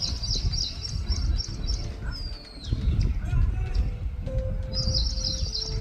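Small birds twittering in quick runs of high chirps, with a single falling whistle about two seconds in, over a steady low rumble.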